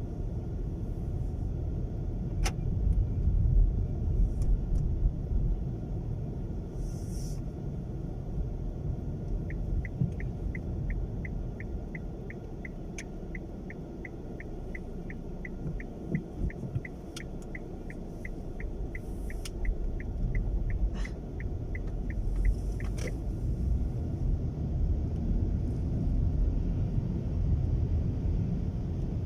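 Low rumble of wind buffeting and road noise inside a moving car's cabin on a very windy day. In the middle, a turn-signal indicator ticks steadily about twice a second for some thirteen seconds.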